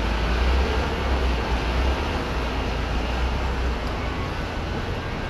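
Steady hiss of rain, with a low rumble underneath that eases a little after about four seconds.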